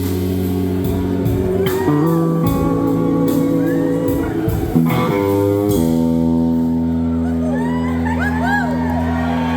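Live rock band playing an instrumental passage: held chords that shift a few times, with electric slide guitar gliding through phrases over them, more of them in the second half.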